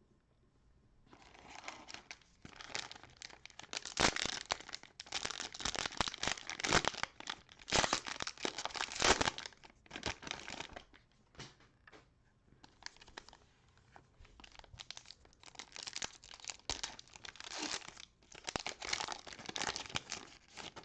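Cellophane wrapper of a trading-card cello pack crinkling and tearing as it is opened by hand, in two stretches of rustling with sharp crackles, with a short lull about halfway.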